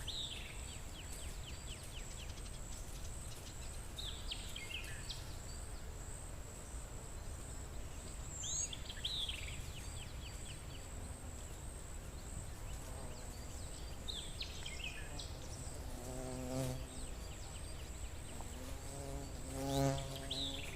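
Forest ambience: a steady high-pitched insect trill runs throughout, and a bird sings short, quick falling phrases every four to five seconds. Near the end, a flying insect buzzes close past, twice.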